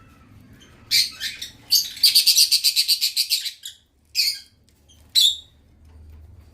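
Lovebirds chirping: a couple of sharp high chirps, then a rapid chattering run of repeated calls lasting about two seconds, then two more single chirps.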